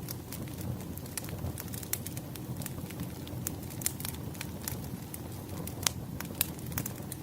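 Firewood burning in an open wood fire: a steady low rumble of flames with frequent sharp crackles and pops from the logs, one louder pop about six seconds in.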